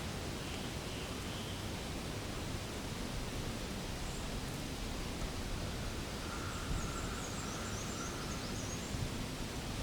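Steady outdoor background hiss with no distinct foreground sound. Faint, high, quick chirps come in about six seconds in.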